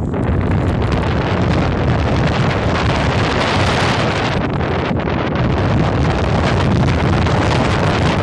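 Wind buffeting the microphone of a camera on a moving bicycle: a loud, steady rushing noise.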